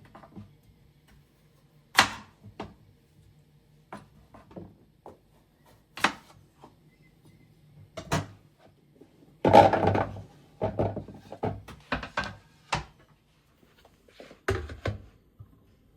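Kitchen work: single sharp knocks and clunks a few seconds apart, then a busier run of clattering knocks about ten seconds in, as things are set down and handled on hard surfaces.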